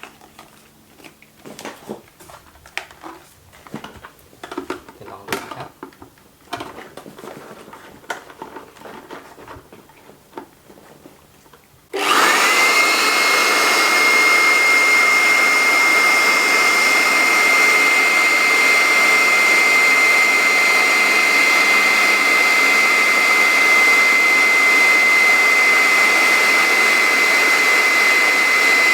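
Quiet clicks and rustles of handling, then a little before halfway an 850-watt INNTech IT-4014 electric blower switches on, its motor whine rising quickly to a steady high pitch over a loud rush of air. It is run in suction mode, drawing the air out of an inflatable mattress.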